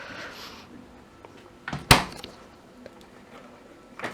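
Hisense fridge freezer door being shut: a light click, then one sharp thud about two seconds in, and a smaller click near the end.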